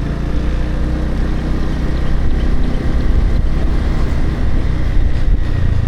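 Motorbike engine running steadily while being ridden, a continuous low engine note with road noise.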